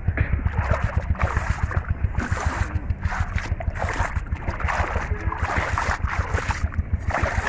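Water splashing and sloshing in the shallows of a river in a quick, irregular run of splashes, as when someone works through the water by hand.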